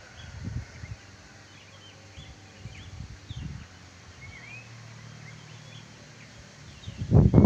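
Wild birds chirping and calling, with short curved chirps repeating throughout. Low rumbling thumps come near the start and again near the end.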